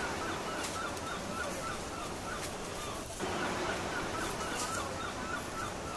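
Forest ambience: a bird calling in a quick series of short, repeated chirps, about three a second, over a steady hiss.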